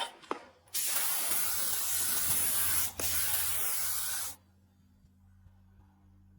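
Paint sprayer hissing steadily for about three and a half seconds, spraying a green topcoat, with a brief break near the three-second mark before it stops. A couple of sharp clicks just before the spraying starts.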